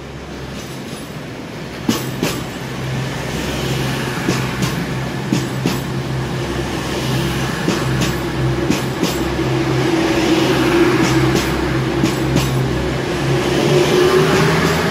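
Diesel passenger train running past along the platform, growing louder, its engines giving a steady drone with a tone that strengthens in the second half. Its wheels click sharply, often in quick pairs, as they cross rail joints.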